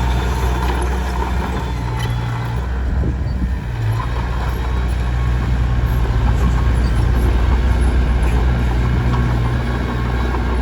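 Komatsu D21P bulldozer's diesel engine running steadily at work, its note dipping briefly about three seconds in before picking back up.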